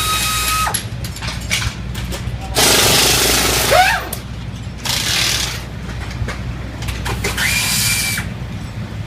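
Power tools running in short spurts as an engine is dismantled: a steady whine that stops under a second in, then two more spin-ups that rise in pitch and level off, one near four seconds and one near the end. A loud burst of hissing comes about three seconds in, with scattered clicks and clanks over a steady low hum.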